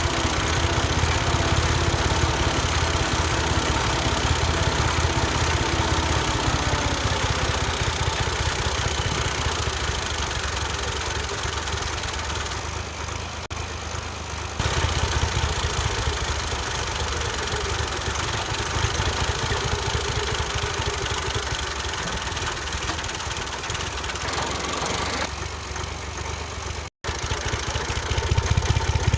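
Small engine of a homemade mini tractor running steadily with a fast low chugging. The sound changes abruptly a few times and drops out for an instant near the end.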